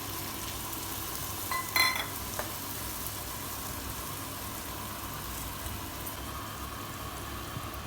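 Chopped onions sizzling steadily as they fry in hot oil in a kadai, with a short clatter about two seconds in.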